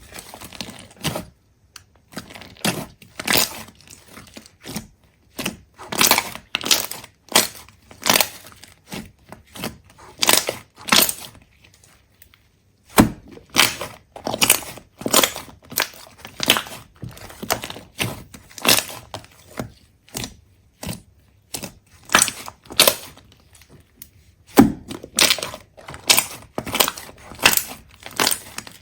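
A close-up run of sharp, irregular crunches and cracks, several a second, with brief pauses about 2 s and 12 s in and again near 24 s, like something brittle being crushed or broken apart.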